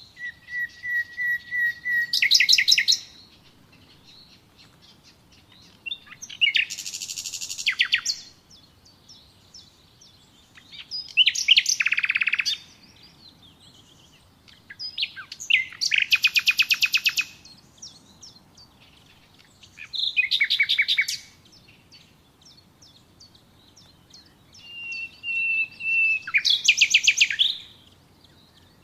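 A songbird singing six separate song phrases a few seconds apart. Each phrase is a run of quick repeated high notes that speeds into a fast trill.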